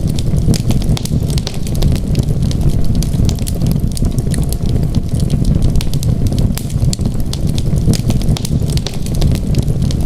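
Wood fire crackling, with frequent small sharp pops at irregular intervals over a steady low rumble.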